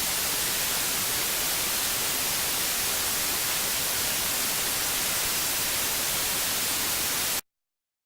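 Steady, even static hiss like white noise, cutting off abruptly into silence about seven seconds in.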